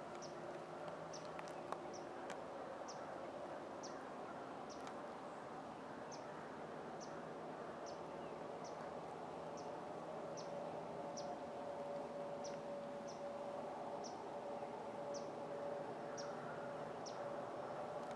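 A small bird repeating a sharp, high chip note about once a second, over a steady faint outdoor hum.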